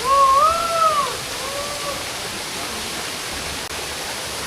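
Waterfall rushing steadily over rock steps. In the first two seconds, two short pitched calls slide up and then down over it.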